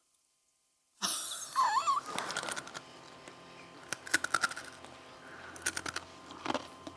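Crunching and chewing on Twiglets, crisp wheat snack sticks, close to the microphone, with scattered crunches. After a second of dead silence there is a short wavering murmur before the crunching starts.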